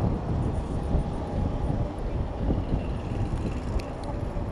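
Traffic and road noise heard from a moving bicycle, with wind rumbling on the microphone. The sound is a steady mix with no single event standing out.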